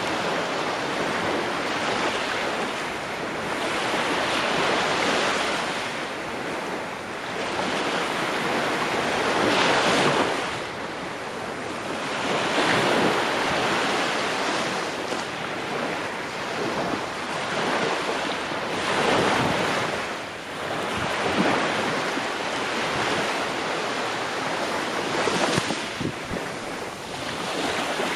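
Ocean waves breaking and washing on a shore, a continuous surf that swells and falls back every few seconds.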